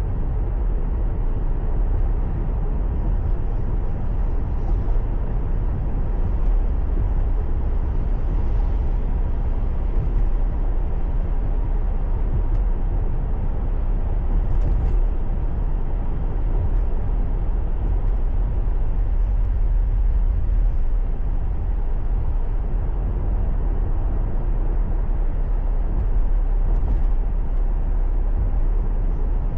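Car driving along a road: a steady low rumble of tyres and engine heard from inside the cabin, with no distinct events.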